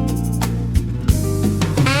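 Smooth jazz instrumental: guitar over bass and a soft drum kit. Near the end a saxophone comes in, sliding up into its first held note.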